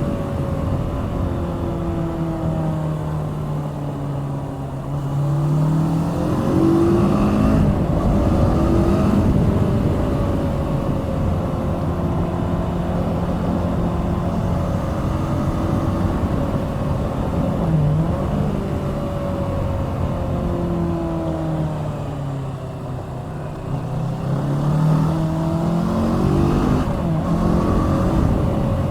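Kawasaki Z650's parallel-twin engine under way, its pitch falling as it slows, then climbing again as the bike accelerates, running steadily for a while with a brief dip, then easing off and pulling up once more near the end.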